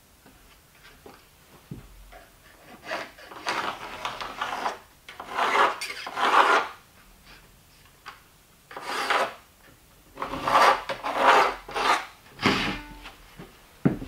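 Wood being scraped or rasped in a series of irregular strokes, each about half a second to a second long, with short pauses between them.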